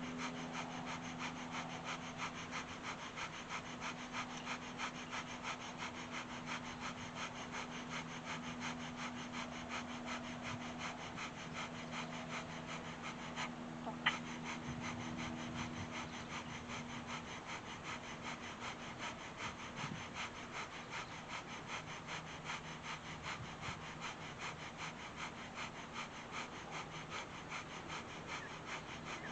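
Rapid rhythmic breathing, a few short forceful breaths a second, typical of Kundalini breath of fire held during a yoga posture, over a faint steady low hum. A single sharp click about halfway through.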